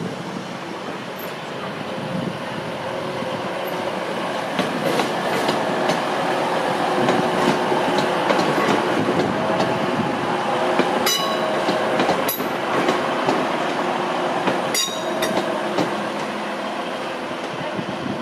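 TransPennine Express Class 185 diesel multiple unit running past slowly, its diesel engines and wheels on the rails giving a steady rumble that swells toward the middle. Three sharp clicks from the wheels crossing rail joints come in the second half.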